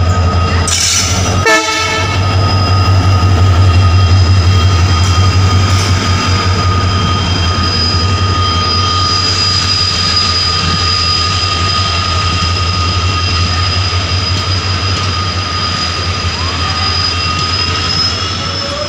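Passenger train arriving behind an Indian Railways diesel locomotive: the engine's low pulsing throb as the locomotive passes, then the coaches rolling by with a steady high-pitched squeal from the wheels as the train slows. A brief loud blast about a second and a half in.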